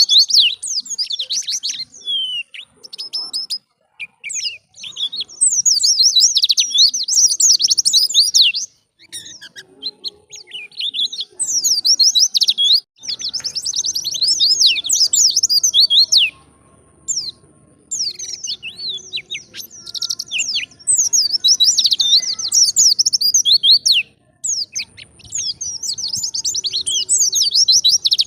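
Wild-caught white-eye (pleci) singing a fast, high-pitched twittering song in runs of several seconds broken by short pauses: the constant 'gacor' song used as a training recording for pet white-eyes.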